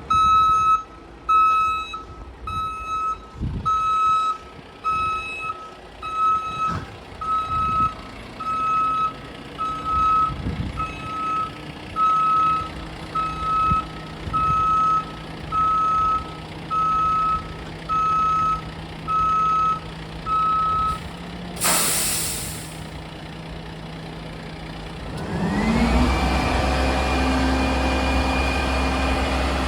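Mack truck backing up, its reversing alarm beeping about once a second over the engine's idle. The beeping stops, a loud air hiss of about a second follows, and then the engine revs up and holds at a higher speed.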